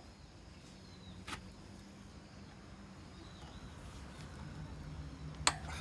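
Two sharp clicks or knocks, about four seconds apart, the second louder, over a low steady hum with faint high chirps in the background.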